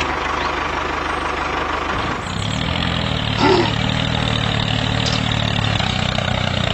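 Small motor of a homemade mini tractor running steadily. Its sound changes about two seconds in to an even low hum.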